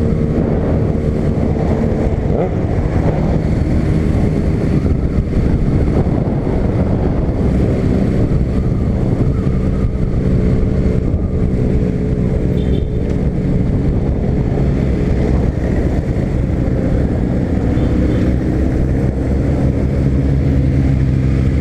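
Honda CB300 motorcycle's single-cylinder engine running steadily under way, loud and at a fairly constant pitch.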